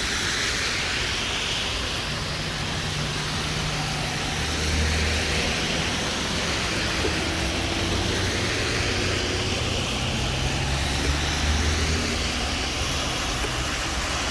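Urban traffic noise: the low hum of passing vehicle engines over a steady hiss, swelling about four seconds in and again near eleven seconds.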